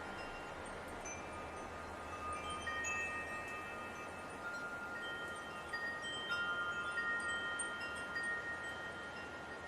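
Metal wind chimes ringing in a light wind: several tones struck one after another and left ringing long and overlapping, over a soft, steady hiss of wind.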